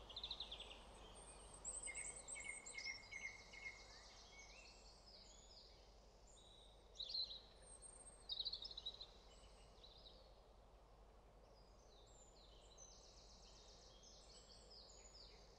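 Faint songbird chorus: several birds chirping and trilling in quick repeated notes, with the loudest calls about seven and eight and a half seconds in and fewer calls in the second half.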